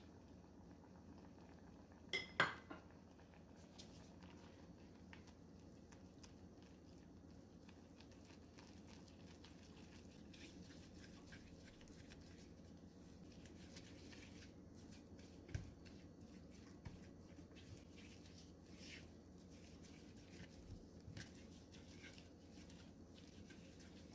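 Quiet kitchen work with a few sharp clinks of kitchenware, the loudest pair about two seconds in and another around the middle, over a low steady hum.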